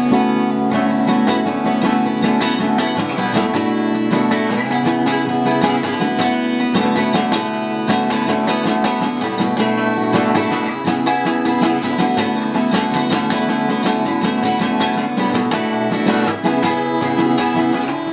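Guitar strummed in a steady rhythm: an instrumental break of a song, with no singing.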